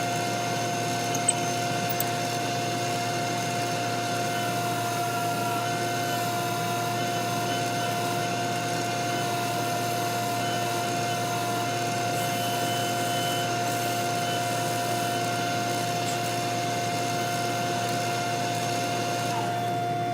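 Wood lathe running steadily: a motor hum with a hiss over it. The hiss stops near the end while the hum carries on.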